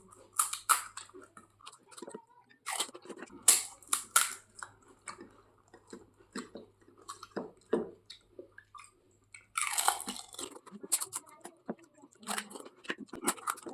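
Close-up eating: crisp golgappa (pani puri) shells being bitten and chewed, irregular crunches with a longer, louder crackle about ten seconds in.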